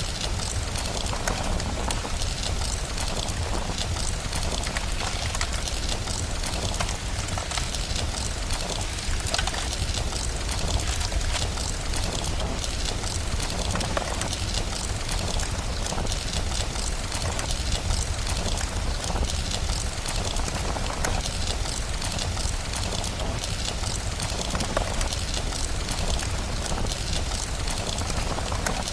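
Steady rain with dense small crackles from a fire and a low rumble underneath, unchanging throughout.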